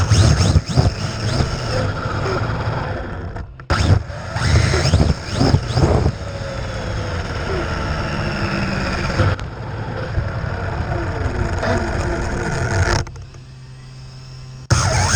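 Radio-controlled Traxxas 4-Tec drag car's electric motor whining up and down in pitch over a steady noisy hiss, with abrupt breaks and a quieter humming stretch near the end.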